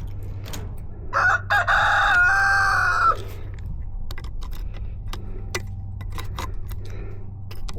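A rooster crowing once, one long call of about two seconds starting about a second in, over a steady low hum and scattered light clicks.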